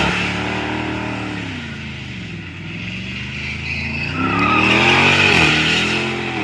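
A drifting vehicle's engine revving, its pitch dipping and climbing, under a steady squeal of spinning, sliding tyres. It swells loudest about four to five seconds in.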